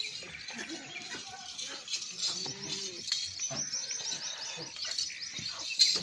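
Many small birds chirping busily, a dense run of quick overlapping chirps, with a few quieter low calls underneath.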